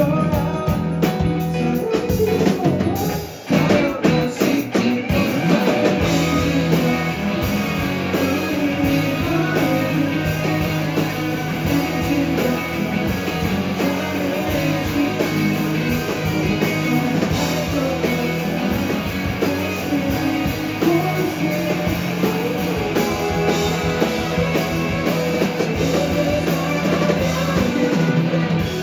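A live rock band playing, with guitar and a drum kit. The sound drops out briefly about three seconds in, then the band carries on.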